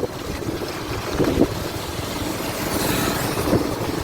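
Bajaj Pulsar 150's single-cylinder engine running steadily as the motorcycle is ridden over a rough, rain-soaked dirt road.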